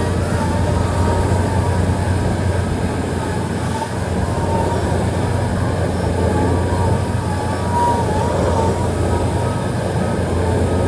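Railway tamping machine at work, packing ballast under the track to bring the rails back into line: a steady deep machine hum over continuous mechanical noise, with a warbling high whine that comes and goes.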